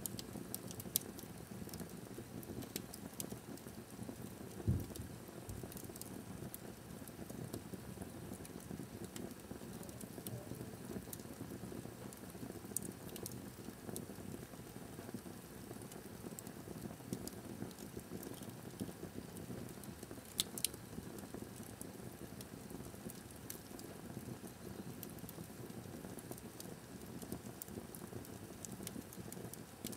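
Wood fire burning in a fireplace: a low steady rush with scattered crackles and pops, and a dull thump about five seconds in.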